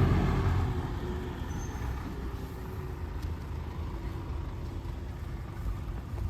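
A motor vehicle driving past and moving away, its low engine rumble fading and its pitch falling over the first two seconds, leaving a steady low rumble of street noise.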